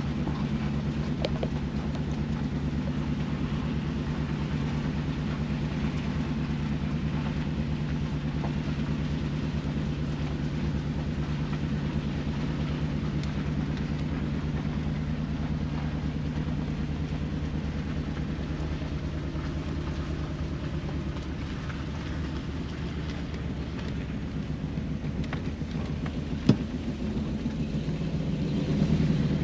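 1965 Bentley S3's 6.2-litre V8 running at a steady pace while the car is driven, a low even drone. A single sharp knock comes about 26 seconds in, and the engine grows a little louder near the end.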